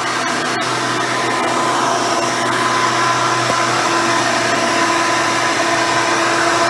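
Hoover Elite 350 upright vacuum cleaner, fitted with a 7-amp motor and seven-blade fan, running steadily with a constant hum and whine while vacuuming, with a light click just after the start.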